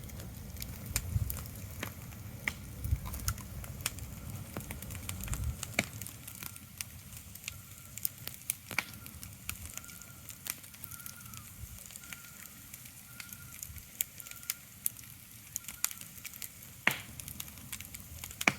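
Irregular sharp crackling throughout, over a low rumble that fades after about six seconds. A faint short high chirp repeats roughly once a second in the middle stretch.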